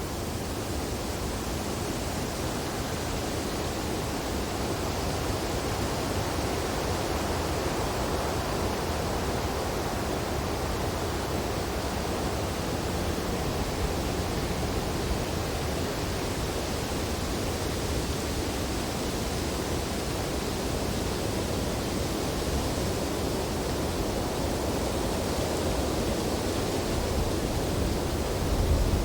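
Wind blowing steadily through tree branches in a snowstorm, a continuous rushing noise that swells and eases slowly, gusting a little harder near the end.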